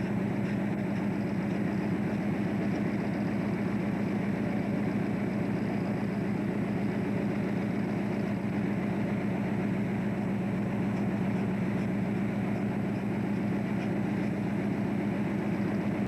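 A fishing boat's diesel engine running steadily, with a low, fast, even throb, heard on board.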